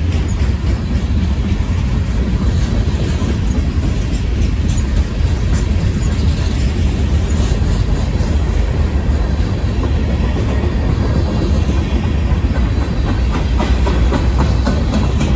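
Freight cars rolling past: a steady rumble of steel wheels on rail, with scattered clicks as the wheels cross rail joints. The cars are a mixed consist of tank cars, boxcars and covered hoppers.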